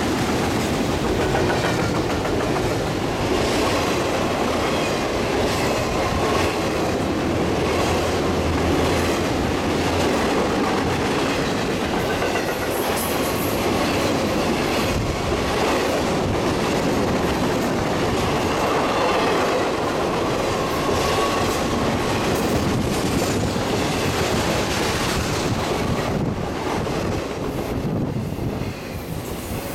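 Norfolk Southern intermodal freight cars (double-stack container well cars and trailer flatcars) rolling past at speed: a steady, loud rumble of steel wheels on rail with clickety-clack over the joints and light wheel squeal now and then.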